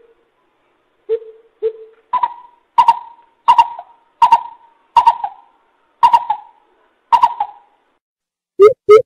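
Coucal hooting: two deep hoots, then a run of about eight higher hoots evenly spaced about 0.7 s apart, each with a short echo. The deep hoots start again near the end.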